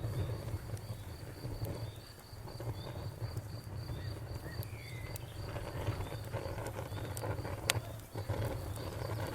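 Wood fire crackling, with scattered sharp pops over a low rumble of the flames; the loudest pop comes about three-quarters of the way in. A steady high chirping runs through it, like a cricket, pausing briefly near the end.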